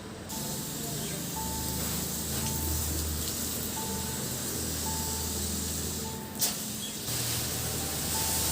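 A steady hiss over a low hum, with a sharp click about six and a half seconds in, over soft background music.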